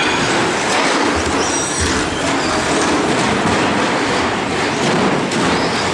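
A pack of radio-controlled short course trucks racing: a dense, steady clatter of motors, tyres and knocks on the track, with a brief high whine about a second and a half in.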